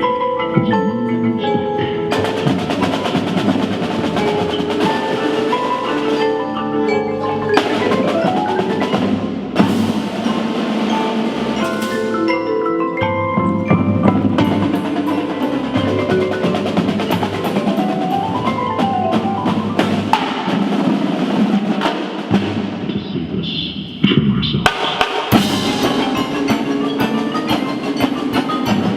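Indoor percussion ensemble playing: marimbas and other mallet keyboards over drums, with quick rising and falling mallet runs and a short drop in volume a little past the middle.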